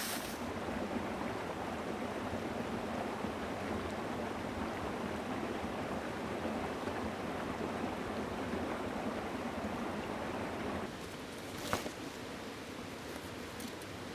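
Mountain stream rushing steadily, falling quieter just before the last few seconds. A single sharp click sounds near the end.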